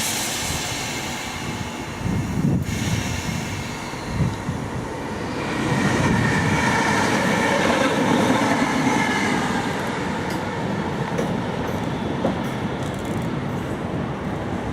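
Passenger train running through the station without stopping, its wheels and track noise swelling to a peak about six seconds in with faint squealing tones. After that comes a run of sharp clicks from the wheels over the rail joints.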